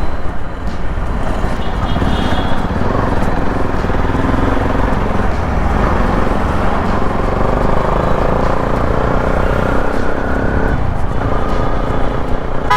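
Bajaj Pulsar NS200 single-cylinder engine running through an aftermarket full-system exhaust while riding, under heavy wind rush on the microphone. The engine note climbs gently in the middle, then eases off near the end.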